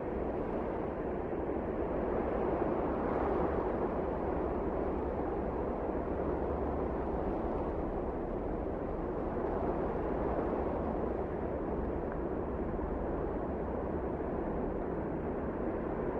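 Wind blowing steadily, swelling a little a few seconds in and again near the middle.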